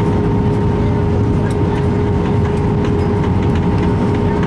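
Cabin noise inside an Airbus A319 on the ground just after landing: a steady low rumble with a constant hum tone running through it.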